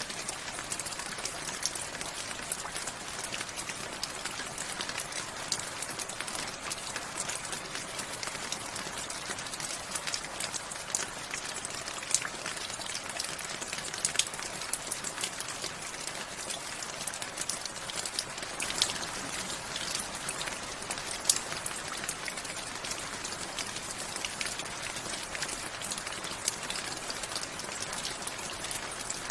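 Steady rainfall: a constant hiss of rain with many individual drops striking close by as sharp ticks scattered throughout.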